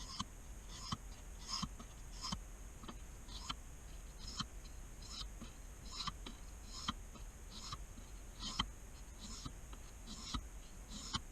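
Pocket knife blade stroked across a fine-grit wet whetstone, a short scrape roughly every 0.8 s in a steady rhythm.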